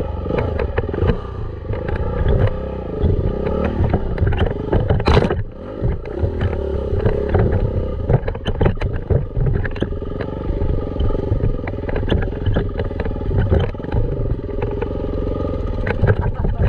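Dirt bike engine running under a rider over a trail, its pitch wavering as the throttle changes, with frequent clattering knocks from the bike and a heavy low rumble.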